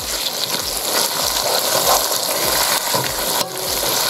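A wooden spoon stirring a sizzling tomato and onion masala in a frying pan, scraping through it in quick repeated strokes, about three a second, over a steady frying hiss as the masala fries down.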